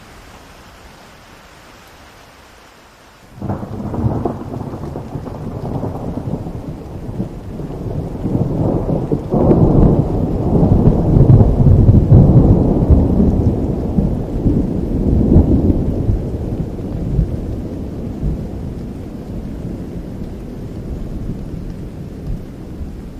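Steady rain hiss, then about three seconds in a sudden clap of thunder that breaks into a long low rumble, loudest some ten seconds in and fading slowly, with the rain still falling under it.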